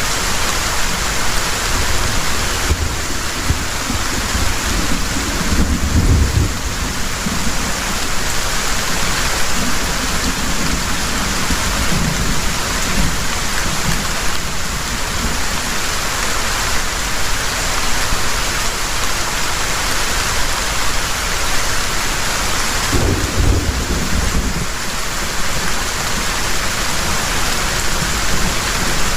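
Heavy rain falling steadily, with low rumbles of thunder: a long roll in the first several seconds and another a little before the end.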